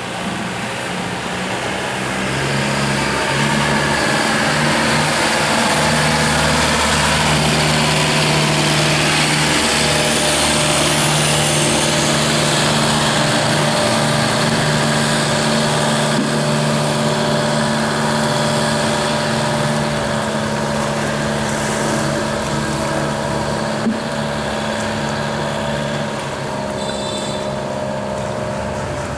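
Long-tail boat engine running steadily. It grows louder about two seconds in and eases off a little in the last third.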